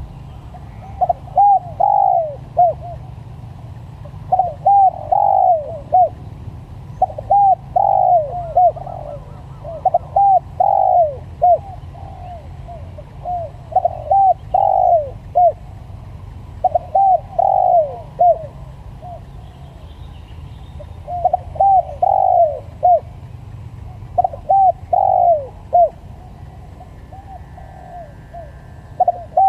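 Spotted dove cooing in repeated phrases of short arched notes, one phrase every two to three seconds, over a steady low rumble.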